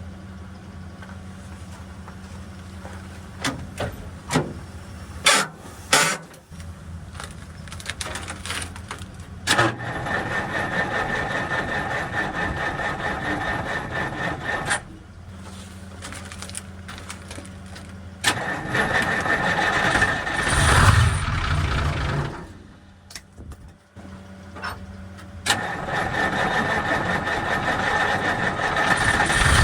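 Cold Cummins diesel engine in a dump truck cranking over on its starter in three long attempts of about four to five seconds each, with a few heavier low thumps in the second as it tries to fire. Before the first attempt there is a steady low engine hum and a few sharp clicks.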